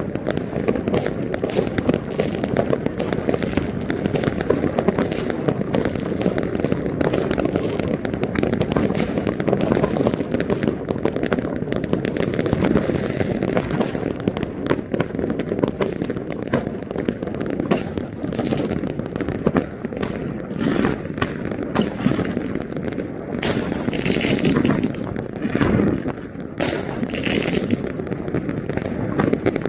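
A dense, unbroken barrage of fireworks going off, overlapping pops, crackles and bangs with no pause, with a few louder bangs near the end.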